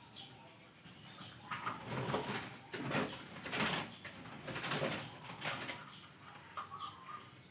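Zebra dove (perkutut) cooing faintly near the start and again near the end, with a few seconds of loud rustling flaps in between, like wings beating.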